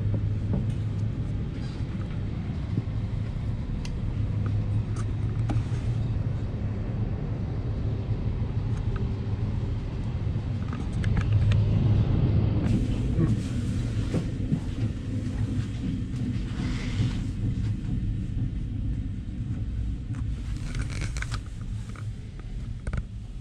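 Passenger train running, heard inside the coach: a steady low rumble and hum from the running gear on the track, with scattered small clicks and knocks, getting louder for a few seconds about halfway through.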